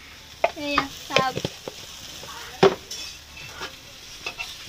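Onions and chilli sizzling in oil in a blackened wok while a spatula stirs them, with one sharp clink of metal on the pan about two and a half seconds in.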